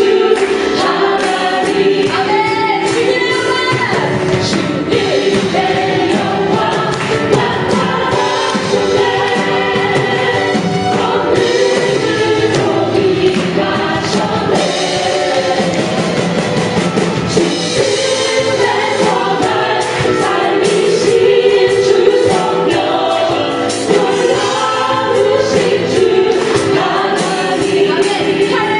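Live worship music: a praise team with a band leads many voices singing a Korean contemporary worship song, with a steady beat.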